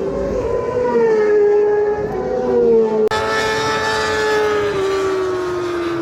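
Superstock 600 racing motorcycles at high revs going past, several engines overlapping, their pitch sliding slowly down. A louder, brighter-sounding bike cuts in about three seconds in.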